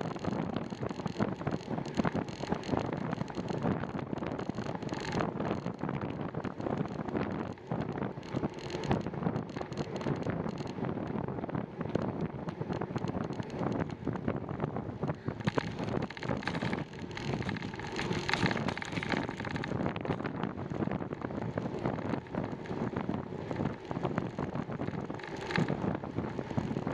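Wind buffeting a camera microphone on a moving bicycle: a steady rushing noise with rapid, uneven flutter.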